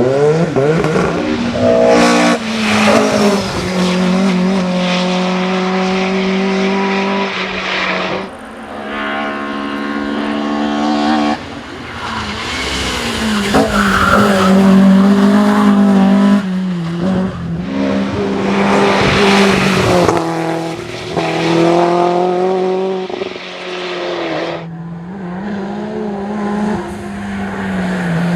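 Hillclimb race car engines at high revs, pitch rising and dropping with gear changes and several sudden changes in level, with some tyre squeal.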